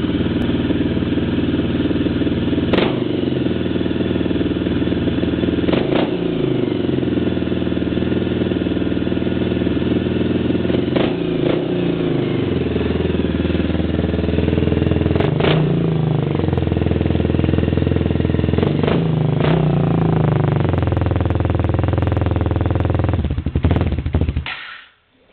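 1997 Suzuki DR350's single-cylinder four-stroke engine running loud through an FMF Ti-4 exhaust, revved up and dropping back about five times. It cuts out near the end, stalling from lack of choke on a cold engine.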